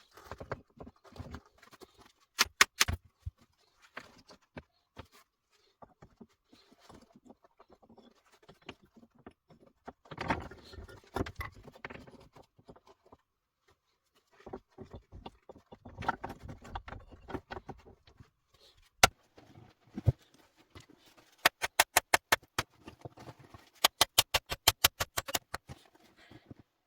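Irregular knocks, clicks and rustling from objects being handled, with two quick runs of sharp ticks, about ten a second, near the end.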